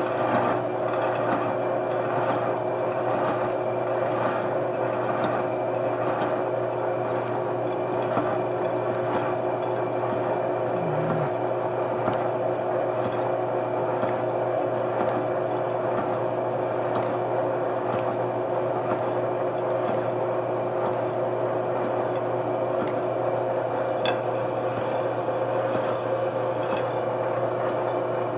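Machine tool running a slitting saw at about 60 RPM with the coolant running: a steady mechanical hum made of several constant tones.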